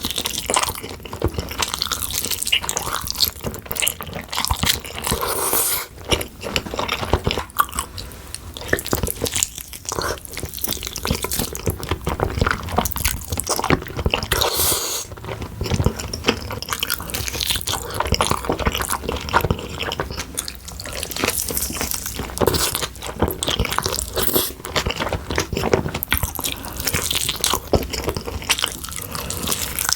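Close-miked mukbang eating of saucy oysters with a crunchy coating: wet, crunchy bites and chewing that go on without a break, with irregular crackles and smacks.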